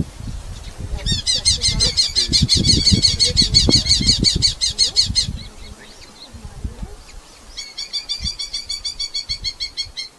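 Red-footed falcon giving a fast, evenly repeated high chattering call, about seven notes a second, in two bouts: one for about four seconds, then another near the end. Low thumps and rumble sound underneath, mostly in the first half.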